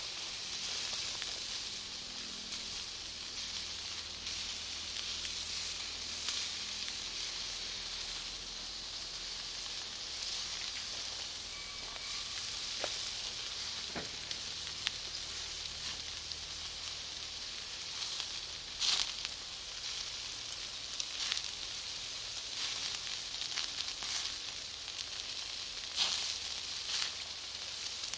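Bonfire of Iwate cut charcoal and firewood burning with a steady sizzling hiss and scattered sharp crackles and pops as the charcoal bursts; the loudest pops come about two-thirds of the way in and again near the end.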